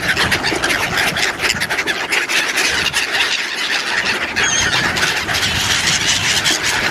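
A flock of ducks calling over one another in a dense, continuous chatter.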